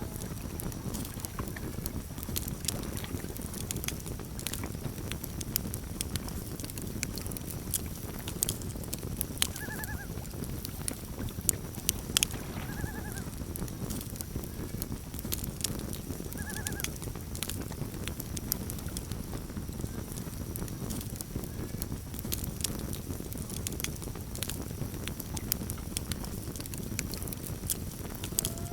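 Campfire crackling with frequent sharp pops over a steady low rush of burning wood. Three short, quavering calls of a common loon come through about ten, thirteen and seventeen seconds in.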